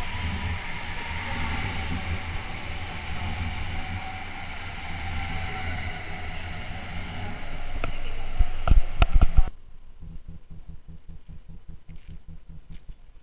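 Double-deck electric multiple unit rolling in along the platform: a steady rumble and wheel-on-rail noise, with a run of loud knocks near the end. About two-thirds of the way through, the sound cuts off abruptly to a faint outdoor background.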